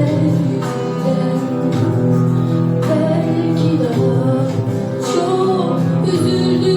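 A solo voice singing a Turkish song over guitar-led accompaniment.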